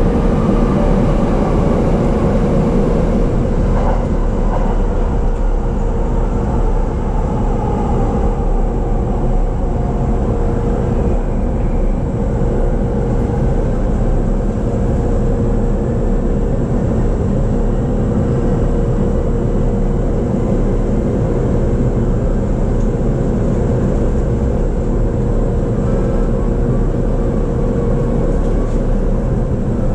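Interior running noise of a JR East E233 series electric commuter train: a steady rumble of wheels on rail with a constant hum.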